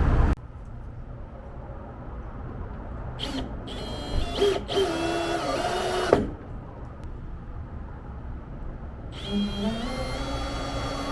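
Cordless drill driving screws into wood, in two runs of about three seconds each. The motor's whine drops in pitch as the first screw bites, and that run ends in a sharp click.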